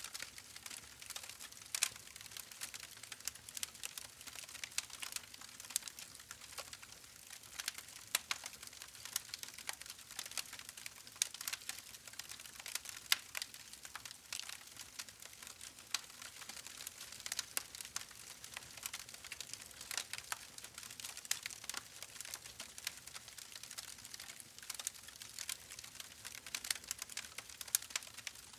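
Wood fire crackling in a fireplace: a steady stream of irregular small pops and snaps over a soft hiss, with louder pops here and there.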